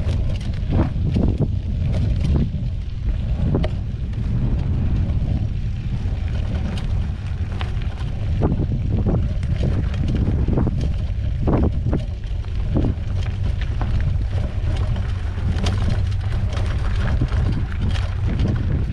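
Wind buffeting the microphone during a mountain bike ride on a dirt trail, with frequent short clicks and rattles from the bike and its tyres over the ground.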